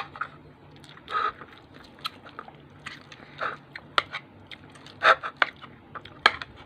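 A person eating chicken adobo: chewing and biting with mouth noises, and irregular short clicks scattered through.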